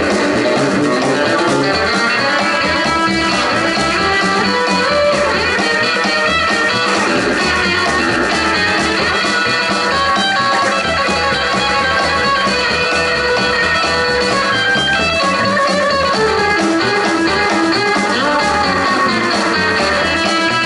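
Live rockabilly band playing an instrumental break with no vocals: a lead guitar picks a run of notes over bass and drum kit.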